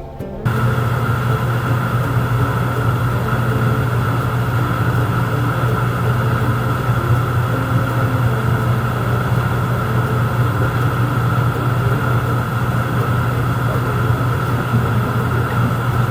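A steady, unchanging low mechanical hum, like a motor running.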